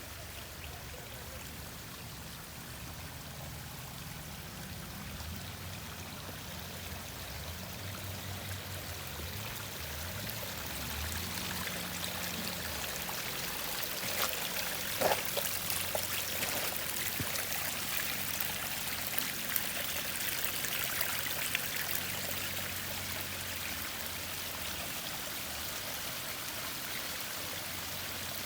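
Water of a backyard waterfall running and splashing steadily, growing a little louder toward the middle, with a few sharp clicks about halfway through.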